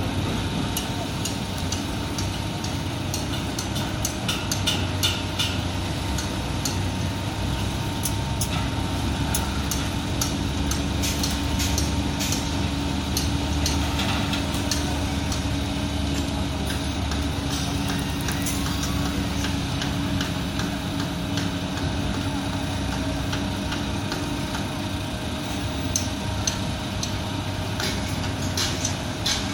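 Heavy diesel construction machinery running steadily at a low rumble, with frequent sharp metallic clicks and clanks throughout.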